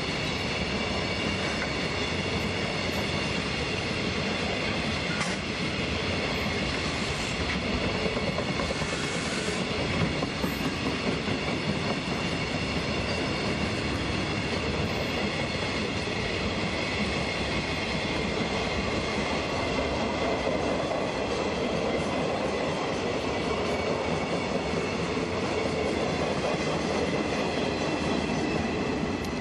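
Long freight train of Koki container flat wagons rolling steadily past close by. The wheels rumble and clatter on the rails, under a thin, steady high ringing.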